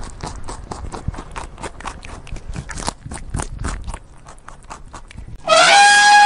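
A rabbit chewing grass: a rapid run of small crunching clicks, several a second. About five and a half seconds in, an Asian elephant trumpets, one loud call that is the loudest thing heard.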